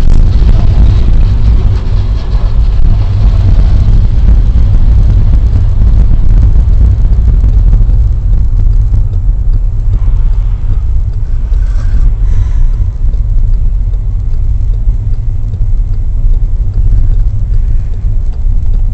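Steady low rumble of road and engine noise inside a moving car, as picked up by a dashboard camera's microphone.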